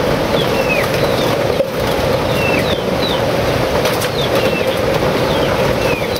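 Birds calling in short whistled notes that sweep down in pitch, repeated every second or so, over a loud steady rushing noise.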